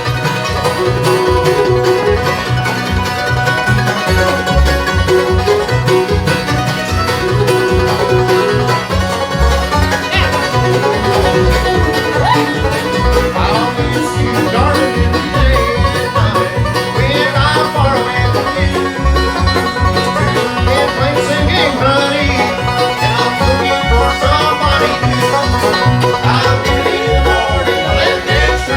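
Bluegrass band playing an instrumental break without vocals: banjo to the fore over guitar, with a fiddle in the mix and a steady low bass pulse.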